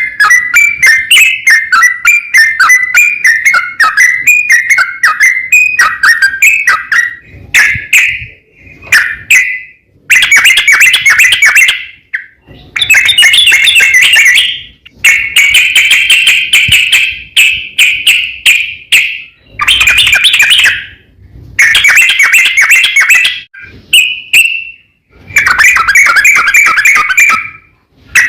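Yellow-vented bulbul (trucukan) singing a long, fast, bubbling rolling song. It starts as one continuous chatter, then breaks into one-to-two-second bursts with short pauses between them. This is the long-roll call that rouses rival bulbuls to answer.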